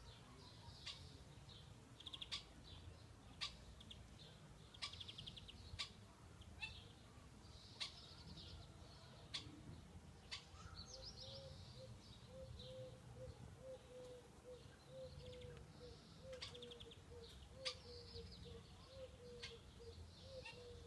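Faint songbirds singing: short trilled phrases repeating every second or two, with sharp single chirps between them.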